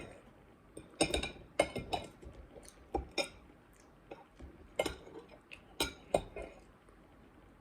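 Cutlery clinking against a plate during a meal: irregular sharp clinks with a short ring, dying out about a second before the end.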